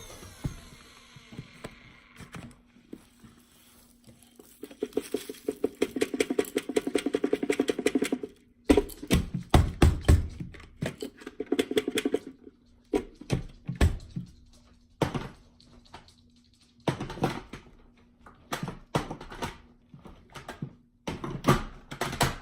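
A vacuum cleaner motor winding down with a falling whine, then irregular clicks, rattles and knocks of the machine being handled, with a quick run of ticks partway through and louder knocks after it.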